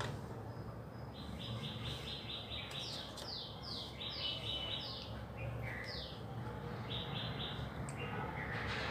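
A bird chirping: runs of quick repeated high notes and several short falling whistles, over a steady low hum.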